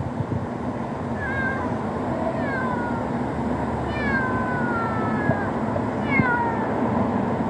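Kitten meowing repeatedly: about five thin, high calls, each falling in pitch, over a steady background hiss.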